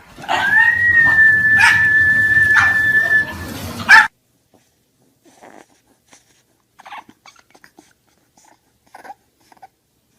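A dog whining one long, steady high-pitched note for about three seconds, which cuts off abruptly about four seconds in. Only faint scattered sounds follow.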